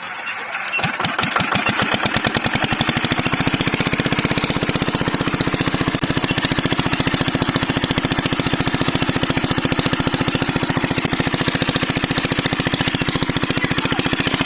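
Water pump's diesel engine catching and starting: firing pulses begin about a second in, quicken as it picks up speed, then settle into steady, even running.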